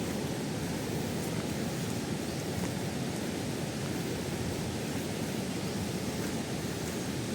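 Waterfall: water pouring and splashing over rock tiers in a steady, unbroken rush.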